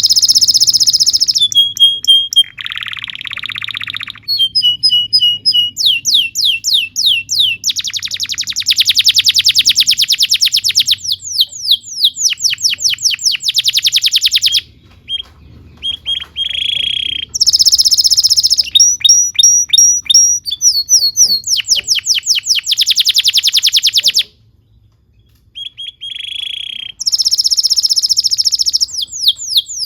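Domestic canary singing a long, continuous song of rapid trills and rolls: fast runs of repeated notes, sweeping whistles and buzzy phrases, with two short pauses between tours.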